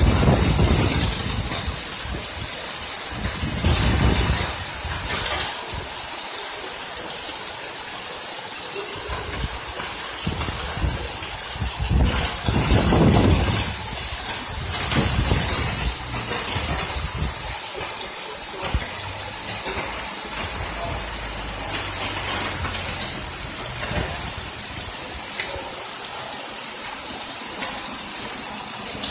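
Heavy tropical downpour: a steady hiss of rain pouring onto the street, roofs and vehicles, heavier for the first several seconds and again at about 13 to 17 seconds, then easing a little. A few low gusty rumbles come through, strongest at the very start, around 4 seconds and around 13 seconds.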